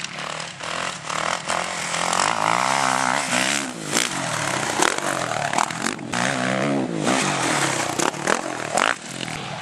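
Motocross bike engine revving, its pitch rising and falling again and again as the rider works the throttle, with frequent short sharp knocks and clatter.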